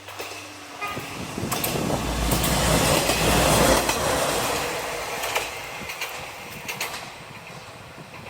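Kanto Railway Joso Line diesel railcar passing close by after a short horn toot about a second in. The engine rumble and the wheels clacking over rail joints build to a peak midway, then fade as it moves off.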